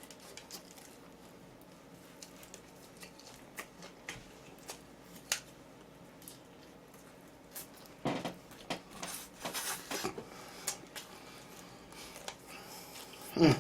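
Faint, scattered clicks and taps of food containers and eating utensils being handled, with a denser run of clatter and rustling about eight to eleven seconds in and a sharper knock near the end.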